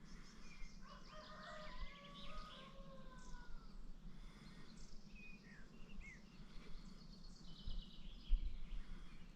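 Several songbirds singing and chirping: overlapping song phrases about a second in, short scattered chirps in the middle, and a rapid high trill near the end. A few low thumps are heard near the end.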